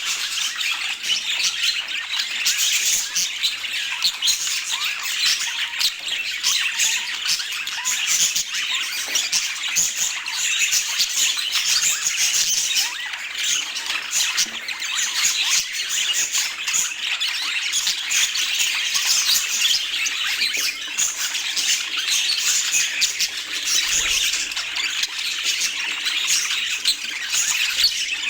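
Budgerigars chattering continuously, many short calls overlapping.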